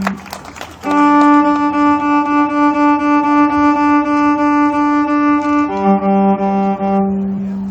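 Violin sounding two long bowed notes: a held note for about five seconds, then a lower held note near the end.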